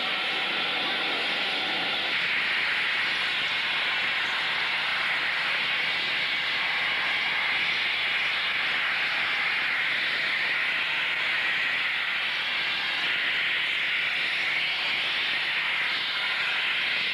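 A steady, even hiss that holds unchanged throughout.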